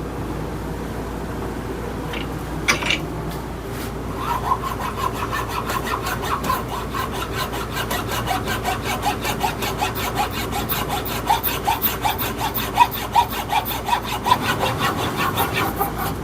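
Coarse hand file rasping back and forth across the sawn end of a black locust hammer handle, taking the wedged top down. Quick, even scraping strokes, about three a second, begin about four seconds in.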